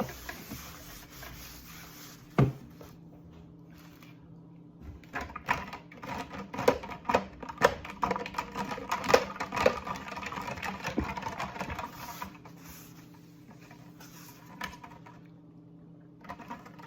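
Ice cubes knocking and clinking in a cup of iced coffee: two single knocks, then several seconds of dense rattling and clinking that dies away near the end.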